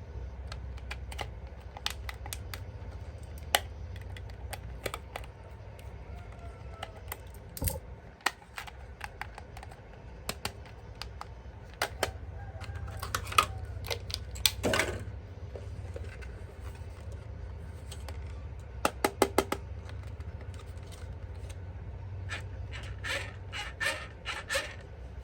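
Hands handling a plastic toy and its packaging: scattered sharp plastic clicks and taps, with a quick run of about five clicks about three-quarters of the way through and another cluster near the end, over a steady low hum.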